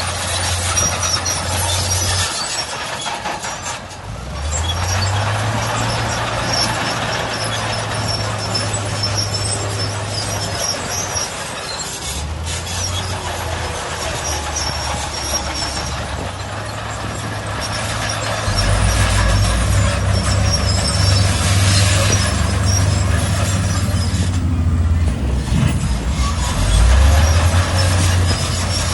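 Heavy diesel engines of dump trucks and earthmoving machines working in sand. The engine note rises and falls and grows louder about two-thirds of the way through.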